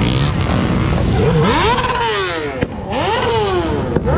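A car engine revved twice over a steady engine rumble, its pitch rising and falling back each time, with a single sharp crack between the two revs.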